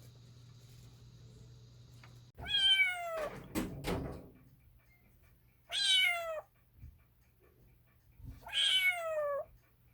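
Domestic cat meowing three times, each meow falling in pitch. Between the first and second meows come a few short knocks or thumps.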